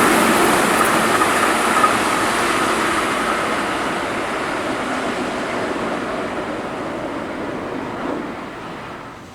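Keihan 8000-series electric train passing at speed and running away into the distance. Its rushing wheel-and-rail noise fades steadily, the high hiss dying away first, and it is down to a low murmur by the end.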